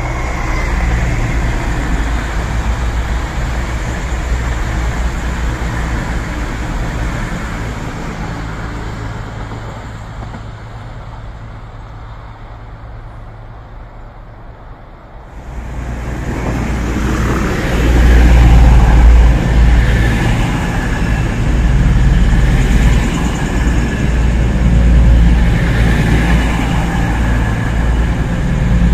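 A train running past, with a steady low engine hum. It eases off for a while, then rises sharply just past the middle and is loudest over the last ten seconds or so.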